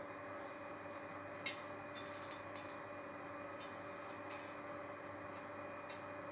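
Faint steady background hum with scattered light clicks and ticks at an uneven pace, the sharpest about a second and a half in.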